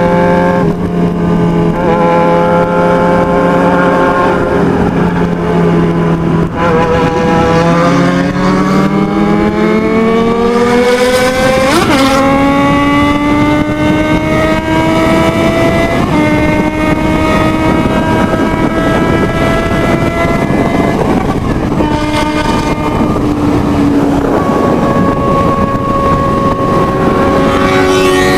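Motorcycle engine running hard at high speed. Its pitch holds, climbs steadily for several seconds about a third of the way in, then steps abruptly a few times as gears change.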